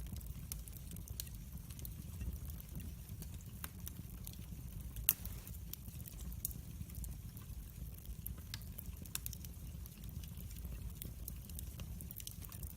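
Wood fire burning in a fireplace: a steady low rumble of flames with irregular crackles and small pops, one pop louder about five seconds in.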